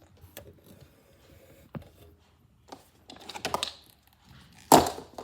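Scattered clicks and clattering of hard plastic toy parts being handled, with one loud knock near the end.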